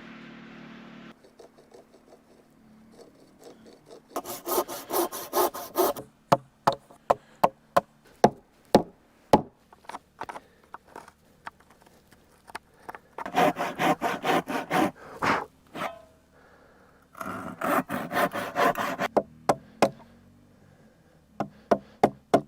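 Saw cutting through wood in three runs of rapid back-and-forth strokes. Single sharp knocks on wood fall between the runs.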